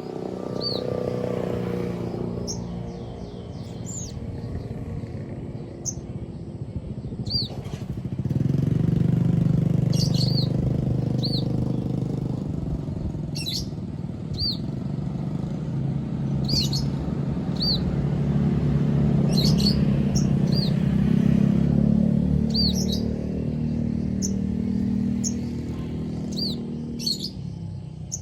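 Sogon songbird calling with short, high, arching chirps, repeated every second or two and often in pairs. Under it runs a loud, low, engine-like drone that grows louder about eight seconds in and eases near the end.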